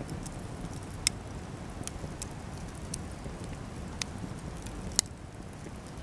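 Cedar offcuts burning in a campfire, crackling with scattered small pops over a low steady rush, and two sharp, louder pops about a second in and about five seconds in.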